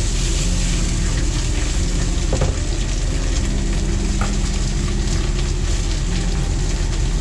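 Food sizzling and frying in a pan, with a few faint clinks from stirring, over a steady low hum.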